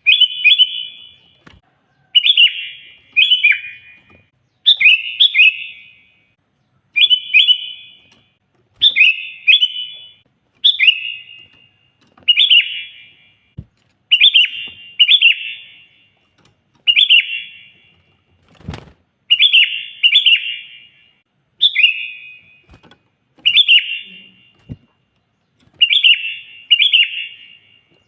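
Sooty-headed bulbul singing loudly and persistently: short bubbly phrases of two or three quick notes, repeated every second or two. A single low knock comes about two-thirds of the way through.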